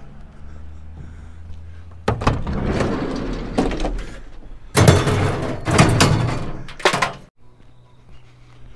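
Loud rustling, scraping and knocking of junk being handled, ending with a door shutting about seven seconds in, after which only a low steady hum is left.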